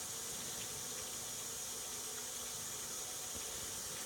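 Top-load washing machine with an agitator, filling with water: a steady hiss of running water.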